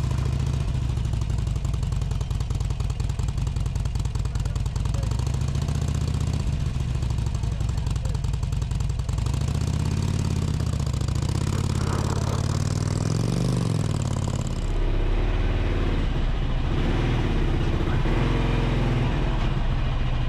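Harley-Davidson V-twin motorcycle engine running at low revs, the revs rising and falling in the middle, as the bike is ridden up a loading ramp.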